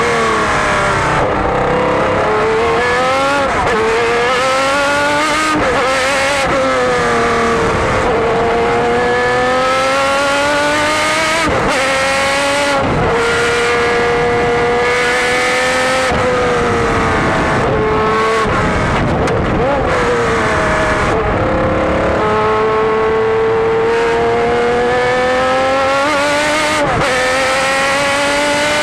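Jaguar XJR-12 racing car's V12 engine at race pace, heard onboard. Its pitch climbs steadily through each gear, drops sharply at the gear changes and sags under braking, again and again around the lap.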